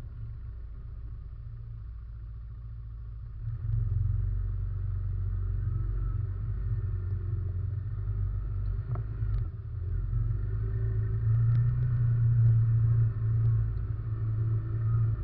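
ATV engine running while riding, heard from a camera mounted on the quad: a low rumble that gets louder about three and a half seconds in and is loudest a few seconds before the end, with a few brief knocks around the middle.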